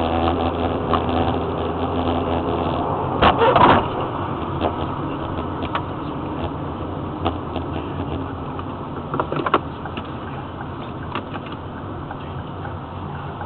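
Steady car engine and road noise, heard through a car dashcam's microphone, with a loud cluster of knocks about three and a half seconds in and scattered clicks after.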